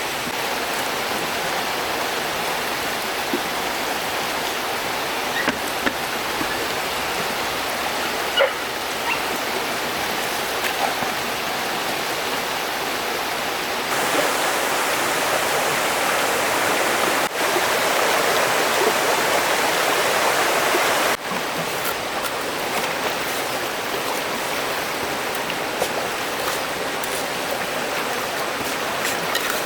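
Stream water rushing steadily, louder for a stretch in the middle that starts and stops abruptly.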